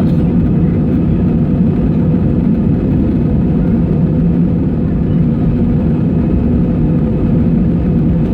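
Airbus A320 jet engines running, heard inside the passenger cabin as a loud, steady, low-pitched noise.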